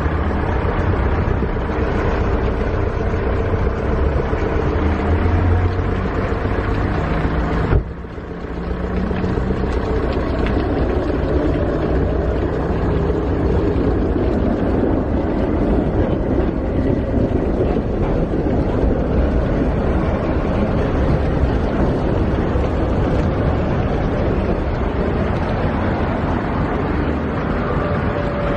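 Steady city street traffic: vehicle engines with a low hum under a dense noise, broken by a sudden dip about eight seconds in.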